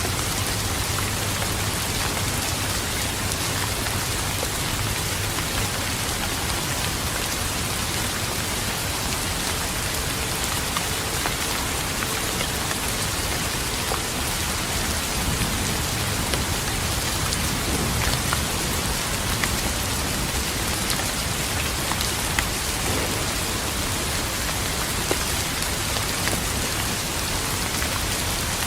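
Steady heavy rain falling on a surface, with individual drops ticking through the hiss. A low thunder rumble dies away in the first couple of seconds.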